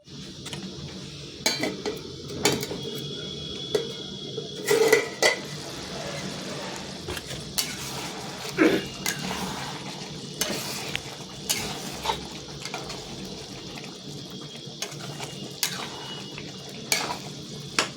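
A metal spoon knocking and scraping against a cooking pot while stirring, with irregular clinks about every second or two over a steady background hiss.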